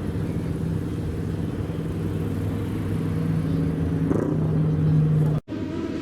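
Old car's engine running at steady revs, a low even rumble; the sound cuts off abruptly near the end and another engine sound follows.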